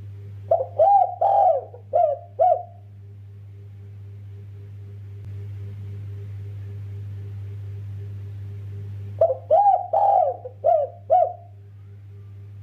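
Spotted dove (derkuku) cooing: two phrases of about five coos each, one near the start and one about nine seconds in, over a steady low hum.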